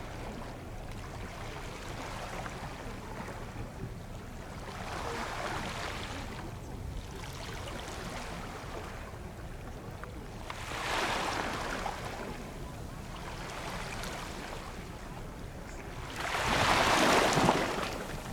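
Waves washing in against the shore, three times at intervals of about six seconds, the last the loudest, over a low steady rumble and wind noise.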